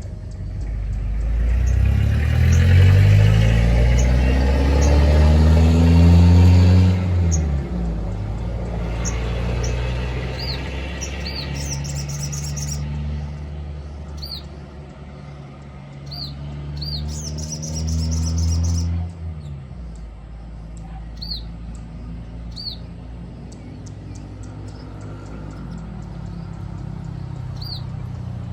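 A motor vehicle's engine revs up in pitch and is the loudest sound over the first seven seconds, then runs again more quietly until about twenty seconds in. From about ten seconds in, short high falling chirps repeat every second or two, with two quick high trills: a Sogon bird's call.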